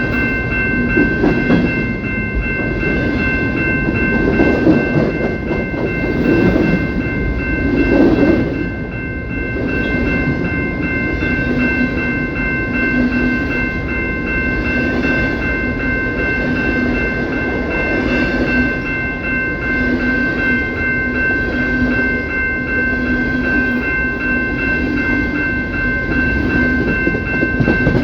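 CPKC train rolling past, its cars rumbling and clattering on the rails, with steady high-pitched ringing tones held under the rumble.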